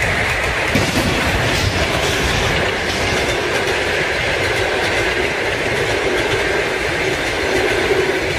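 A passing passenger train running over the rails at a level crossing: a steady, loud noise of wheels on track, with no single impact standing out.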